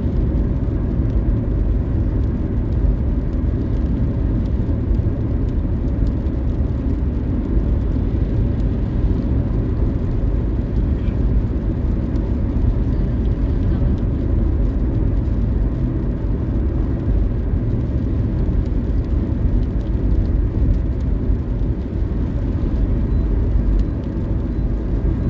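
Steady rumble of road and engine noise from a car driving along, heard from inside the car.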